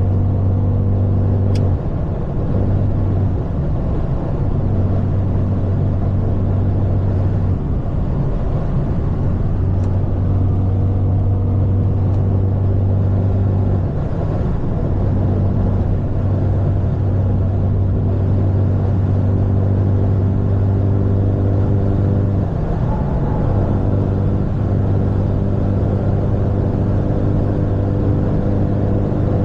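Straight-piped, catless exhaust of a BMW 530's turbo four-cylinder, droning steadily at cruise. The drone breaks off briefly a few times and comes back at a slightly different pitch, as with lifting off the throttle or shifting gears.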